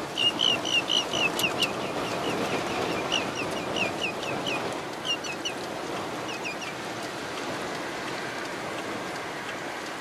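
A wading bird calling: rapid runs of short, sharp, downward-slurred notes in several bursts through the first two-thirds, over a steady rush of wind and rain.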